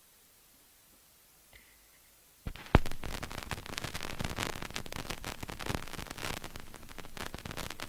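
Near silence, then about two and a half seconds in rain starts: a dense, crackling patter of drops, with one sharp tap just after it begins.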